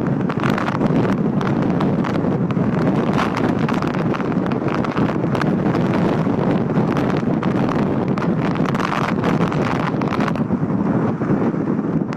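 Typhoon wind blowing hard across the microphone: a loud, steady rush of wind noise full of crackling buffets.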